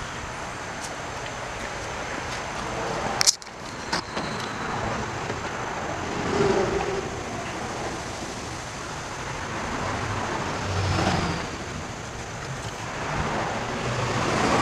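Road traffic noise that swells and fades as vehicles pass, with a sharp click about three seconds in.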